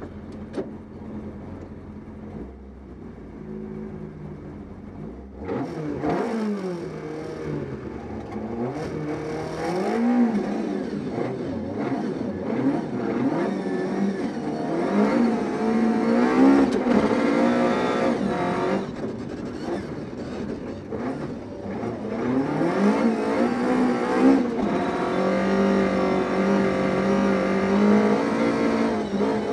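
Volvo 240 rally car's engine heard from inside the cabin: running steadily while the car stands still, then about five seconds in it revs hard as the car launches and accelerates flat out, its pitch climbing and dropping again and again through the gear changes.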